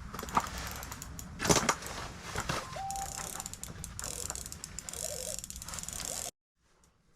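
Spinning fishing reel ratcheting with rapid clicking as it is worked against a hooked lake sturgeon that is holding or taking line. It cuts off abruptly about six seconds in.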